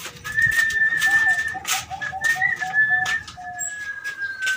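Birds calling: a long, high, steady whistle with a quick run of short lower notes in the middle, over scattered light clicks.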